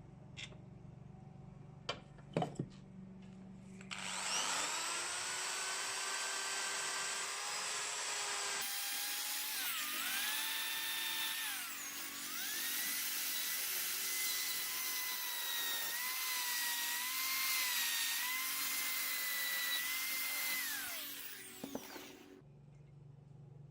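A handheld electric rotary tool spins up with a rising whine about four seconds in and runs at speed. Its pitch sags a few times as it is pressed into the work, and it winds down near the end. A few light handling clicks come before it starts.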